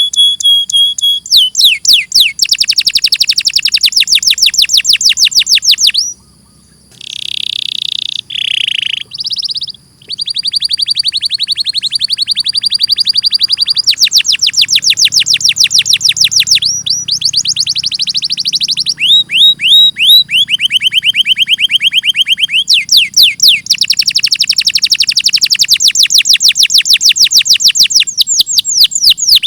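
Domestic canary singing: long, rapid trills of repeated sweeping notes, changing from one trill to the next every few seconds. A softer stretch of a few seconds comes about six seconds in.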